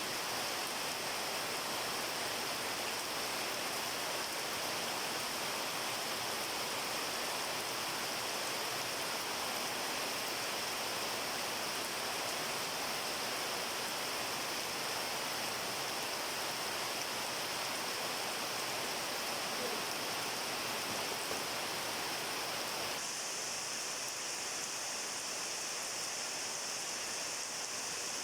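Steady rain falling, an even hiss of water with no single drops standing out. About four-fifths of the way through, the sound turns slightly duller and quieter.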